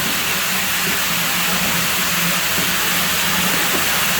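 Steady rushing of running water at a pool villa's pool, an even, unbroken hiss.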